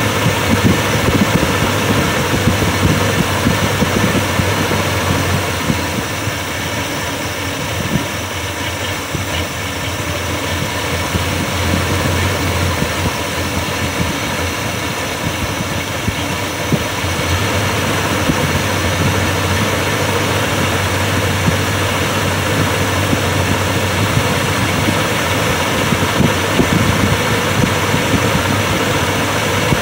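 Carbureted car engine idling steadily while its idle fuel mixture screw is turned clockwise, leaning out the mixture. The running sound drops a little about six seconds in and comes back up a few seconds later.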